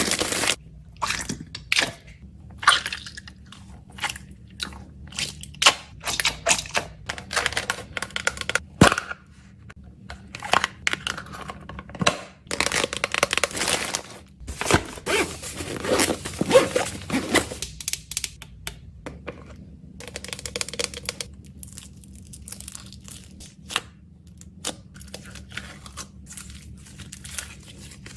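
Plastic packaging being handled: wrappers crinkling and tearing, with many quick clicks and crackles, busy and irregular for most of the stretch before easing to a softer rustle near the end.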